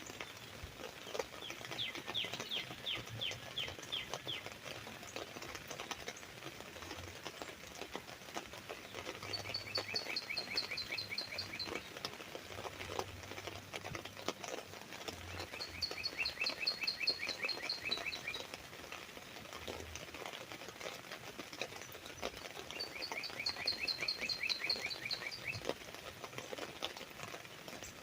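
Raindrops tapping irregularly on an umbrella canopy, while a bird sings rapid trills of repeated notes: one phrase near the start and three similar phrases later on.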